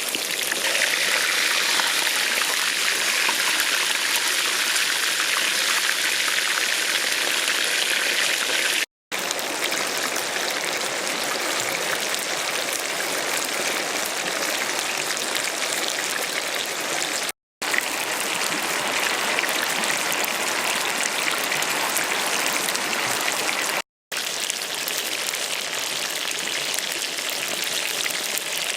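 Whole chicken deep-frying in hot oil, a steady dense sizzle that breaks off for an instant three times.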